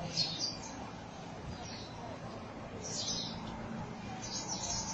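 A flock of birds chirping in a tree: short high chirps every second or so, coming thicker near the end, over a low steady background hum.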